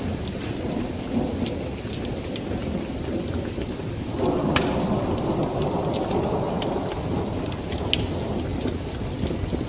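Wood fire in a fireplace crackling: irregular sharp pops over a steady low rush of flame, which swells a little about four seconds in.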